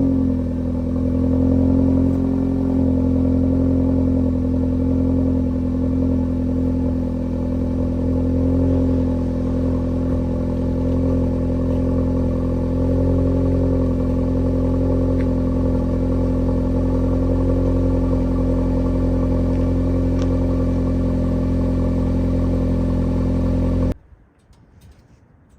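Audi S3's turbocharged four-cylinder engine idling steadily through an MBRP active cat-back exhaust with its valves open. The sound cuts off suddenly near the end.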